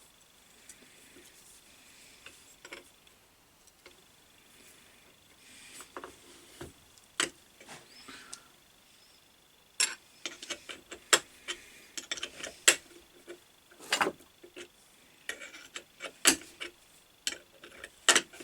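Small metal clicks and clinks of hand work on an Atlas 10 lathe's fixed steady as its threads are cleared out. It is sparse and faint at first, then a quick, irregular run of sharp taps starts about ten seconds in.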